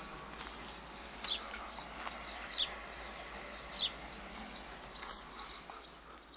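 A dog whining in short, high squeaks that fall in pitch, three of them louder than the rest, over a steady low background.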